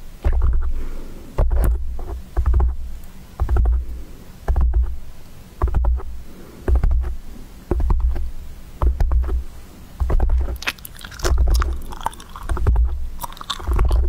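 Hands grabbing and rubbing directly on a microphone, a deep rumbling thump about once a second. Scratchy crackling over the mic grows from about ten seconds in.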